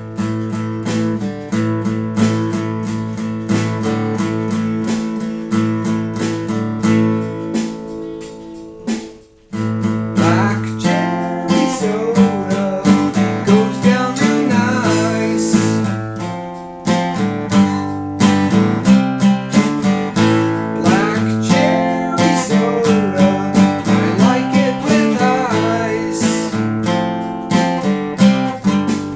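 Guitar song at about 90 beats per minute: strummed chords ring out, break off briefly near the nine-second mark, then come back with a wavering picked melody line over them.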